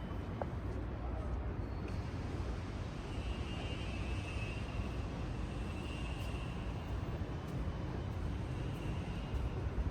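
Steady low rumble of city traffic and street noise, with faint high-pitched tones coming and going from about three seconds in.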